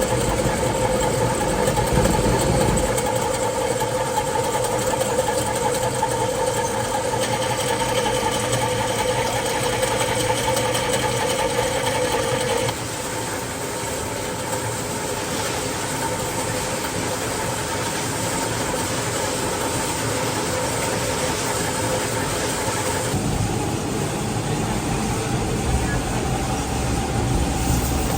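Steady running of workshop machinery, a constant mechanical hum that changes suddenly a few times.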